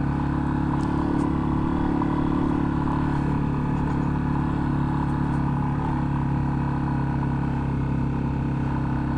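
Yamaha XT250's single-cylinder four-stroke engine running at a steady speed while the motorcycle is ridden, with an even, unchanging pitch.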